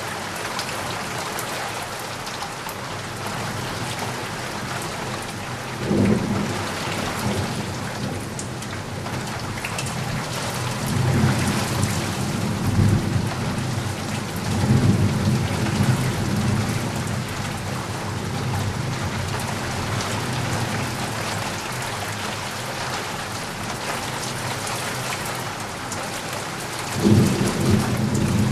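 Steady rain falling, with thunder: a sudden clap about six seconds in, a long rolling rumble through the middle, and another sudden clap near the end.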